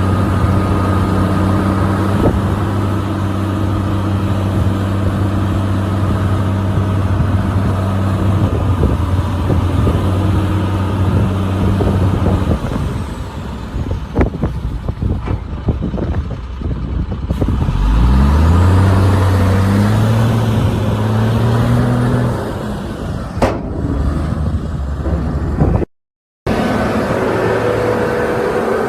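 Heavy diesel engine of earthmoving machinery running steadily under load, then revving up about two-thirds of the way through and holding the higher speed for a few seconds. The sound cuts out for a moment near the end and the engine comes back.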